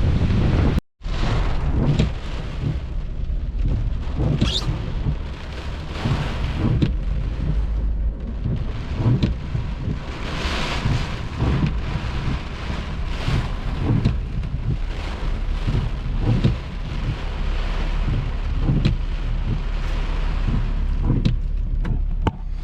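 Hurricane wind and heavy rain in gusts, with the wind buffeting the microphone into a deep rumble.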